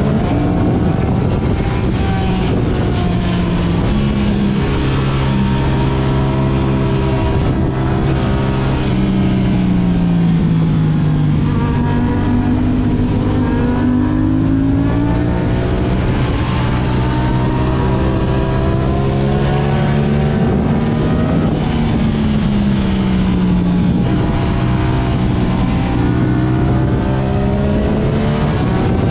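Yamaha R6 inline-four sport bike engine through an Akrapovic exhaust, under way, its pitch falling and rising repeatedly as the rider rolls off and opens the throttle, with a steady low rush of wind noise underneath.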